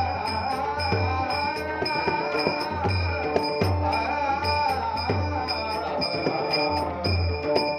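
Marathi devotional bhajan: a singing voice carried over a drum and small metallic percussion keeping a steady beat of several strokes a second.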